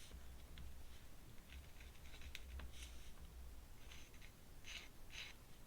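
Metal dip pen nib scratching across paper in a series of short, faint ink strokes, growing louder near the end.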